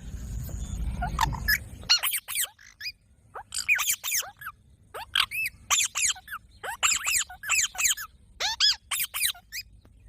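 A green parrot calling: a long run of short, shrill squawks, each rising and falling in pitch, in quick clusters. A low rumble sits under the first two seconds.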